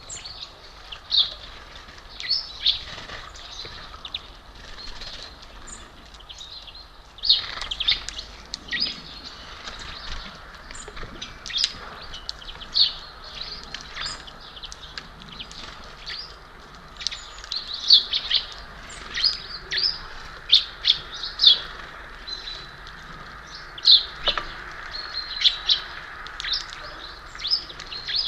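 Small songbirds calling at a bird feeder: many short, high chirps scattered irregularly throughout, several birds at once.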